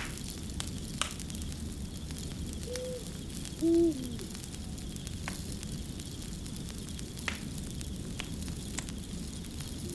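Crackling fire: a steady low rumble with scattered sharp pops and crackles. About three seconds in an owl hoots, a short note followed by a louder, lower one that slides down at its end.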